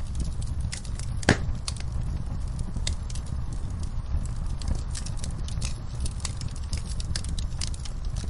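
Wood fire crackling in a fireplace: many small irregular snaps and one sharp, louder pop about a second in, over a steady low rumble.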